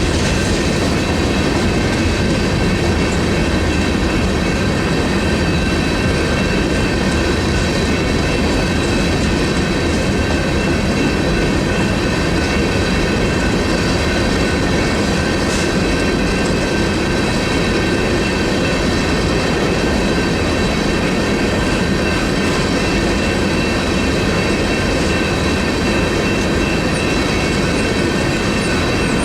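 Freight train rolling steadily through a grade crossing, its cars' wheels clattering on the rails. The crossing's General Signals electronic bells ring on top as steady high tones.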